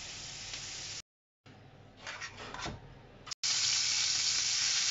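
Mushrooms sizzling in a frying pan; the sound cuts out for a moment about a second in, a quieter stretch with a few light clatters follows, and from about three and a half seconds in bacon rashers sizzle loudly in hot fat in a pan.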